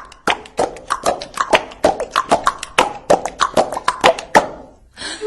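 Body-percussion music: a fast, even rhythm of hand slaps, taps and mouth clicks at about five strokes a second, some with a short pitched thud. The rhythm stops about four and a half seconds in.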